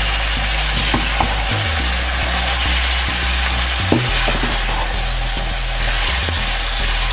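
Beetroot strips, tomatoes and green chillies sizzling in hot oil in a pan as they are stirred with a wooden spoon, with a few light knocks of the spoon against the pan. This is the bhuna stage, where the tomato and spice masala is fried down with the vegetable.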